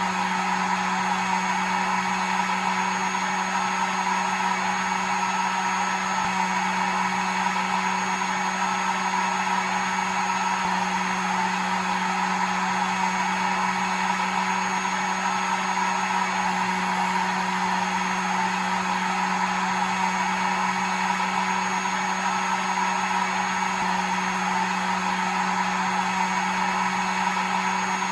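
Hair dryer running steadily: an even rushing hiss over a steady low motor hum, unchanging throughout.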